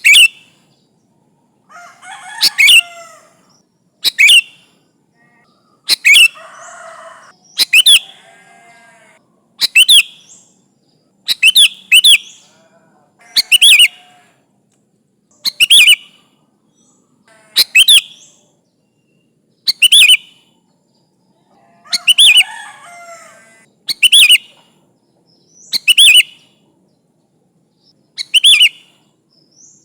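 Sooty-headed bulbul (kutilang) calling in a lively, persistent way: a sharp, loud call about every two seconds, each a quick downward sweep, with softer chattering between some of them. It is a challenge call to rivals, used as a lure for other bulbuls.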